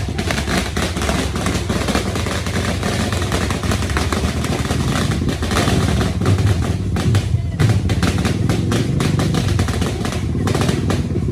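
Vehicle on the move: steady engine and road rumble with rattling throughout.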